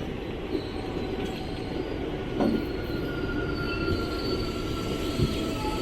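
Express train running on the rails: a steady rumble of wheels on track with thin, high squealing tones from the wheels. Two short knocks come about two and a half and five seconds in.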